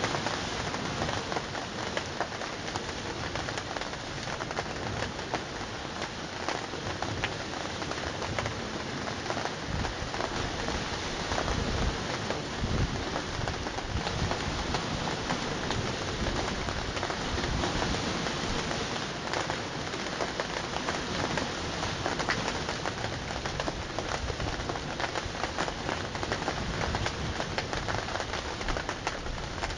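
Steady heavy rain, a dense patter of drops on surfaces. From about ten seconds in, a low rumble of wind or distant thunder sits under it.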